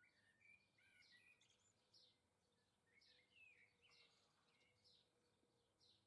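Faint garden birdsong: short high chirps repeated every half second or so, with a few lower sliding notes near the start and about three seconds in.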